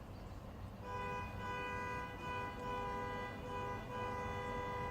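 Car horn sounding impatiently, two notes together, held for about four seconds with a few brief dips. It starts about a second in.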